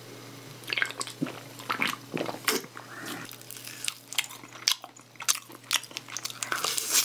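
A person biting and chewing sauce-glazed fried chicken, picked up close by the microphone. The bites and chews come as irregular, moist crunches and smacks.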